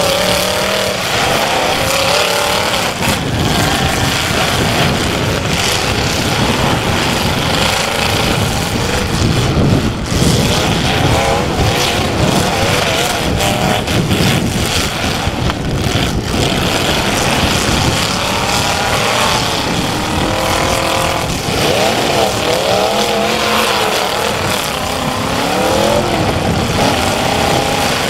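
Several demolition derby cars' engines running together, revved up and down, their pitch rising and falling near the start and again in the latter part.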